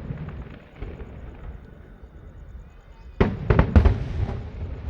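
Aerial fireworks bursting: after a lull of about three seconds, a rapid volley of several loud bangs in quick succession.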